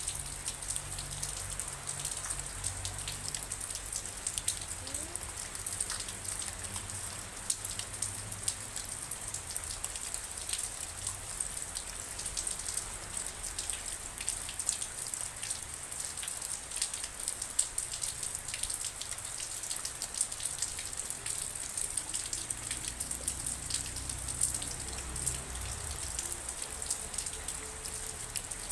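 Steady rainfall with many separate drops ticking through an even, high-pitched hiss.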